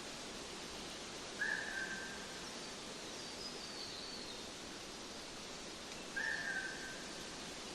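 A bird gives two short whistled calls about five seconds apart, with fainter, higher chirps in between, over a steady hiss.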